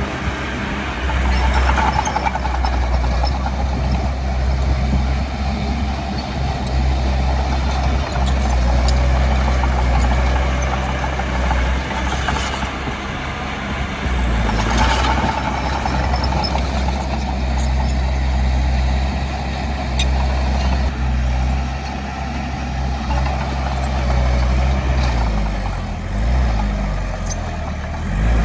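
Diesel engine of heavy earthmoving machinery running steadily, with two short hisses around the middle and a shift in engine speed near the end.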